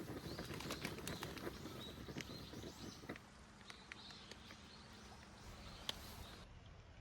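Faint outdoor ambience with scattered short bird chirps and small clicks. A low rumbling noise stops about three seconds in, and a single sharp click comes near the end.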